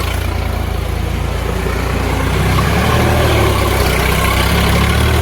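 Diesel tractor engine running steadily, driven in tight circles.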